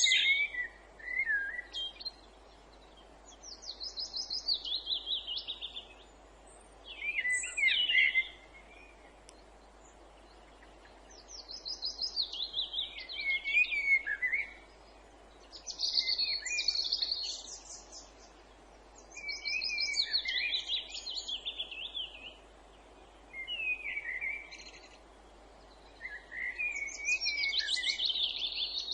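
Songbirds singing: short phrases of quick trills falling in pitch, a new phrase every few seconds with pauses between, over a faint steady background hiss.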